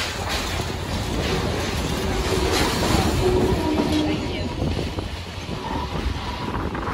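Passenger train carriages rolling along the track, a steady rumble and clatter of wheels on rails heard from an open carriage platform.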